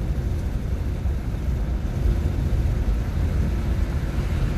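Steady low road and tyre rumble heard inside the cabin of a moving 2021 Nissan Leaf electric car.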